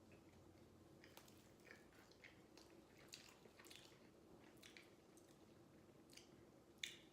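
Faint mouth sounds of someone chewing pizza: soft, scattered wet clicks and smacks over a low steady room hum, with one sharper click near the end.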